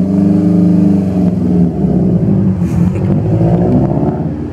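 Car engine revving as the car accelerates: the pitch climbs and falls over the first second or so, then climbs again a little past the middle.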